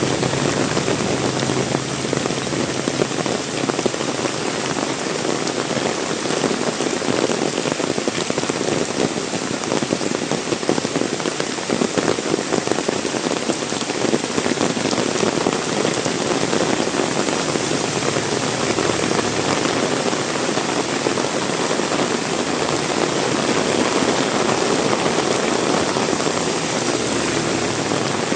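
Heavy rain falling steadily: a dense, even patter of drops on surfaces, with no let-up.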